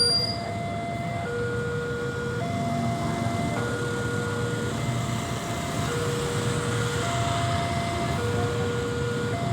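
Railway level-crossing warning alarm sounding its two-tone electronic chime, a higher and a lower note alternating about every second, over a low rumble of traffic.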